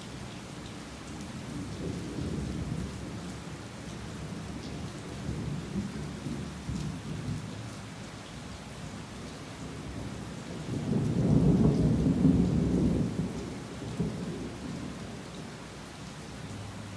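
Heavy rain falling steadily, with thunder rumbling low in the background; a louder, longer roll of thunder comes about eleven seconds in and dies away over three seconds.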